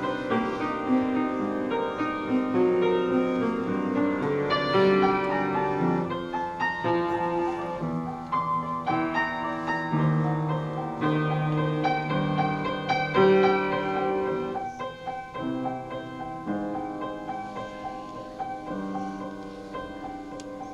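Solo piano playing a slow interlude of chords and melody, getting softer in the second half.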